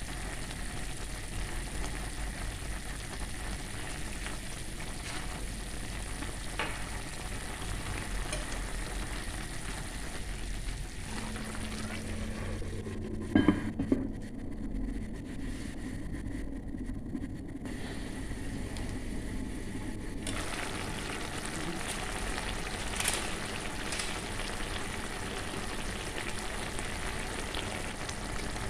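String beans and chicken sizzling in a pan of adobo sauce. A few sharp clinks of a utensil against the pan come about halfway through, and the higher part of the sizzle drops away for several seconds after them before coming back.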